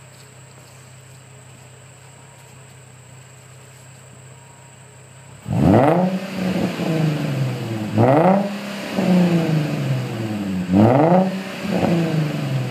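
Nissan Skyline 350GT's 3.5-litre V6 through a custom exhaust. After about five seconds of low steady hum, the engine is revved in sharp throttle blips, about five of them a second or two apart, each rising in pitch and falling back to idle.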